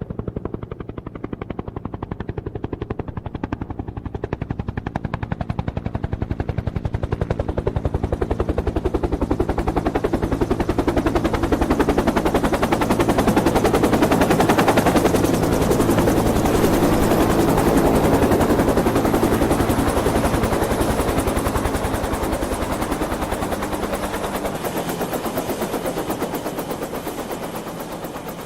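Helicopter rotor blades chopping in a fast, even beat with engine drone underneath, growing louder to a peak about halfway through as it passes close, then fading as it moves away.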